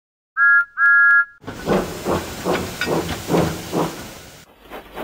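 Steam locomotive sound effect: two short whistle toots, then hissing steam and regular chuffing as the engine gets going, cutting off suddenly near the end.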